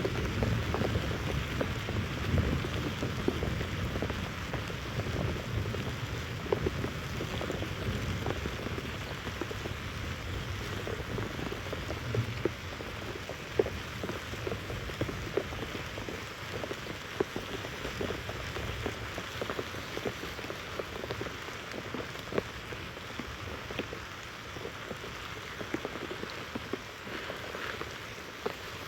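Rain falling steadily, with many separate drops tapping audibly against a surface. A low rumble under it in the first few seconds eases off.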